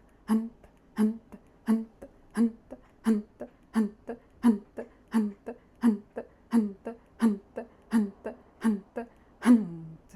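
A woman's Kapalabhati breathing: sharp, forceful exhalations, each voiced as a short 'hunt' grunt, at about one and a half a second. The last one, near the end, is longer and falls in pitch, ending the round of pumping.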